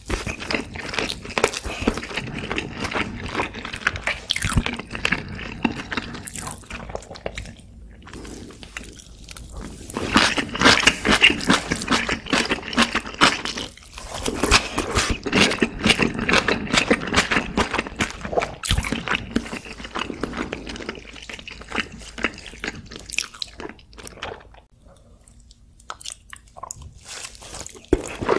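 Close-miked eating sounds: wet, smacking chewing of braised kimchi and pork back ribs, a dense run of clicky mouth noises that eases off briefly near the end.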